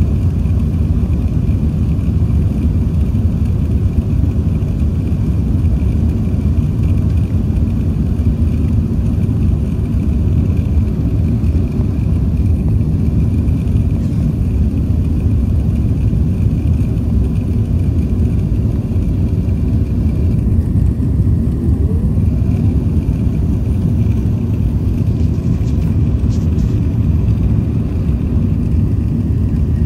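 Jet airliner cabin noise: a steady low rumble of the engines and rushing air, with a faint steady high-pitched tone over it.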